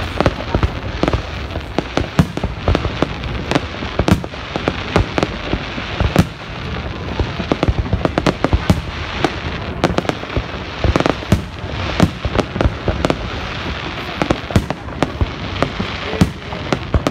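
Aerial fireworks display: exploding shells going off in a rapid, irregular barrage, several sharp bangs a second over a continuous background noise.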